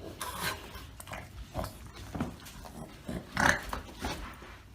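Several short animal sounds in a row, the loudest about three and a half seconds in.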